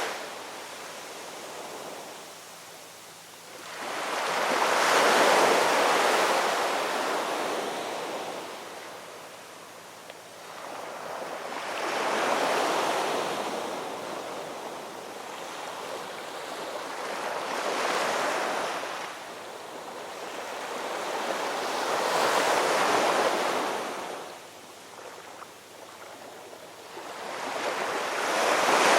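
Ocean waves breaking on a shore: five surges of surf, one every five or six seconds, each swelling up and washing away.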